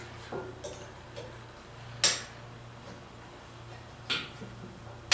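Sharp metallic clinks as an Allen wrench works the bolts that hold a Thunderbolt 1000 siren's horn to its chopper: a few faint ticks, then two loud clinks about two seconds apart, each ringing briefly.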